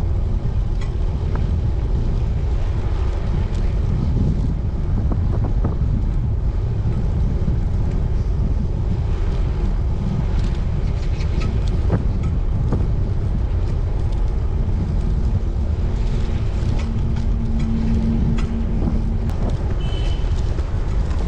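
Wind buffeting the microphone of a cyclist riding along, a steady low rumble.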